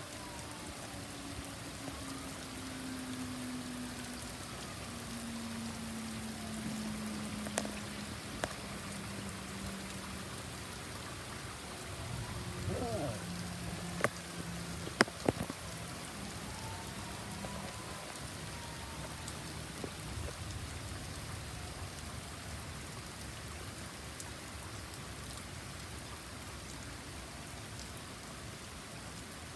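Steady heavy rain falling on a lawn and driveway. Faint tones slide slowly up and down in pitch behind it, and a few sharp knocks come around the middle.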